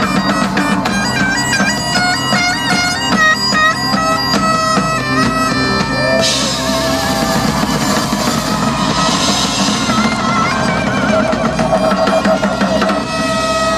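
Live bagpipes playing a fast, stepping melody over their steady drone, backed by drums. About six seconds in, a loud crash wash comes in and the pipes move to longer held notes.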